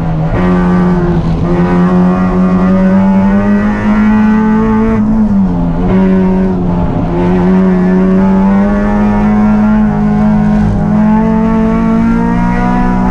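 Race car engine running hard at high revs, with a strong steady note. The revs dip briefly at the start, about five and a half seconds in and again around seven seconds, then climb back.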